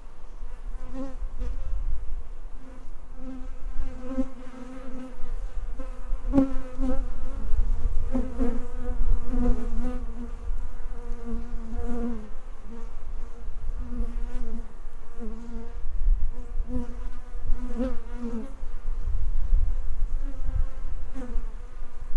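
Honeybees buzzing at the hives, bees flying close past the microphone so the buzz swells and fades, wavering in pitch. A low rumble runs underneath.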